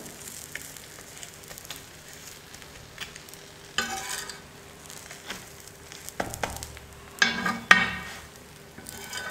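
Egg-coated chapati sizzling lightly on a hot tawa, with a steel spatula scraping and pressing against the pan a few times: once about four seconds in, and loudest in the second half.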